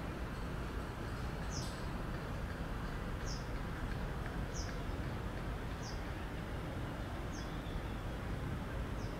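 A small bird giving a short, high chirp about six times, roughly every second and a half, over a steady outdoor background hiss.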